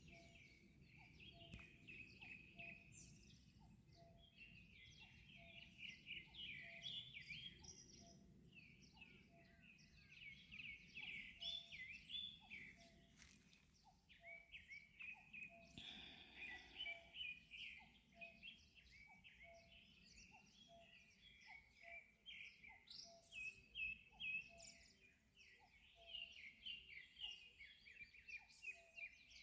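Faint morning birdsong: many birds chirping and twittering at once, with a short low note repeating about once a second under the higher chirps.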